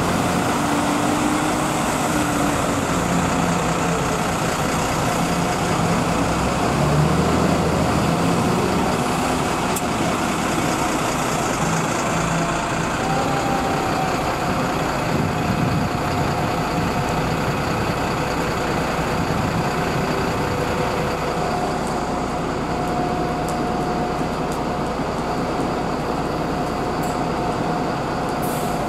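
A city bus running, with steady traffic noise around it and faint engine tones that shift slightly in pitch.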